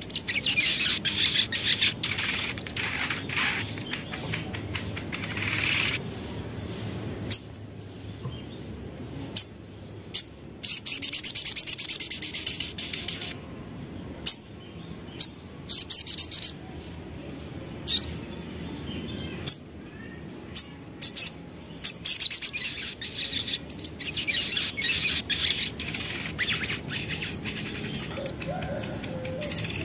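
Crimson sunbird (sogon) singing in high-pitched phrases of rapid trilling, broken by sharp single chips between the trills.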